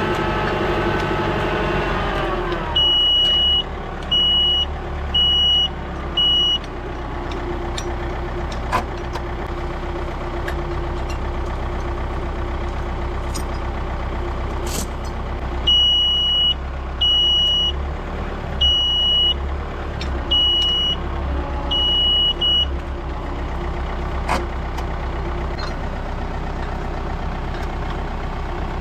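A work machine's engine running, its revs dropping about two seconds in. A reversing alarm beeps in two runs, four beeps and then about six more, each beep about half a second long. A few sharp knocks come in between.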